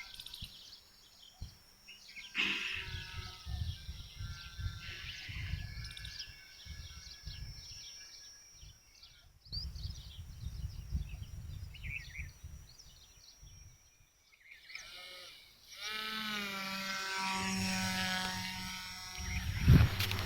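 Strong wind buffeting the microphone in uneven gusts. About two-thirds of the way through, a small model aircraft motor comes in with a steady buzzing whine.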